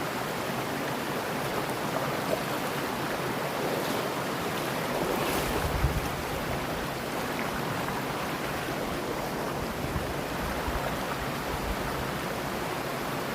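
Steady rushing of a mountain stream flowing over rocks. A short, louder low rumble comes about five to six seconds in.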